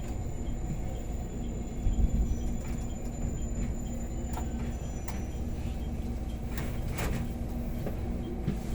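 JR Kyushu 813 series electric train running, heard from behind the cab: a steady low rumble with a faint steady hum, and a few short sharp clicks from about two seconds in and again around seven seconds.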